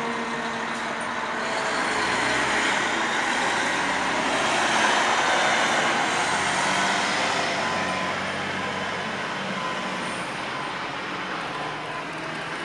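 A fire engine driving past, its engine and tyre noise swelling and then fading away.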